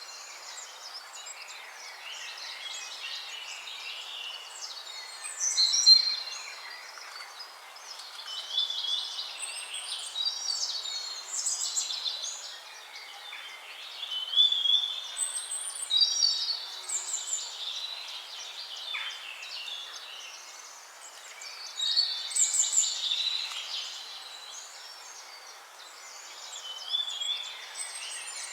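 Several songbirds singing together: overlapping warbled phrases and high chirps come and go in bursts over a steady background hiss.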